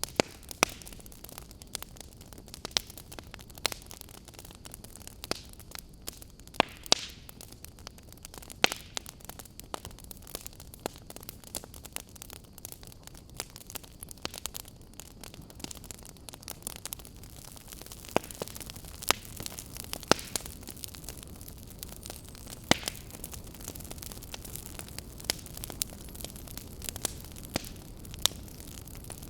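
Wood fire burning in a fireplace, crackling: irregular sharp pops and snaps, a few each second with occasional louder ones, over a steady low hiss.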